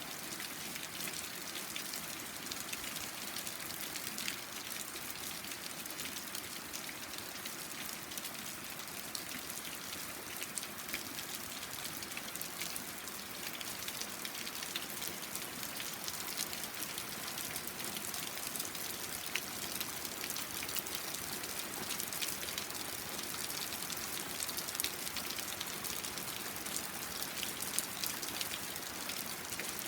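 Steady rain falling, an even hiss dotted with many individual drop ticks on the deck and surfaces.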